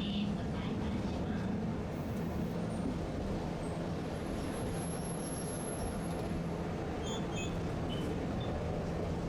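Tosaden streetcar running along the street tracks: a steady low rumble with a constant low hum and a faint high whine partway through.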